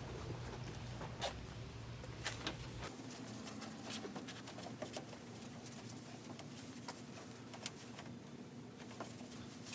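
Faint scattered clicks and light rubbing from hands working at a car headlight with a restoration kit, over a low steady hum that shifts in pitch about three seconds in.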